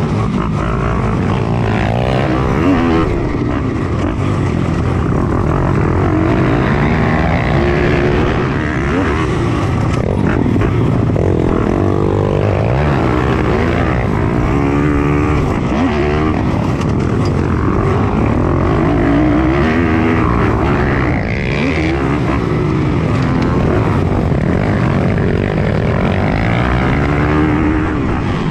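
Single-cylinder four-stroke pit bike engines racing, heard onboard: the revs climb and drop again and again through gear changes and corners, with other pit bikes running close by.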